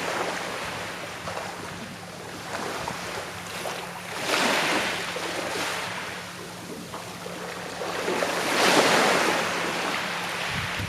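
Calm sea waves washing onto the shore, with two louder swells, about four seconds in and near the end, each rising and then falling away.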